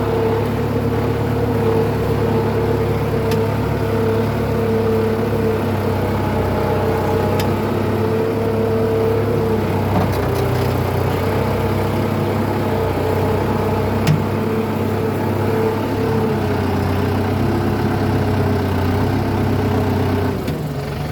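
Kubota M9540 tractor's diesel engine running steadily while the tractor pulls a ripper through the soil between sugarcane rows. There is a single click about 14 seconds in, and the engine note drops near the end.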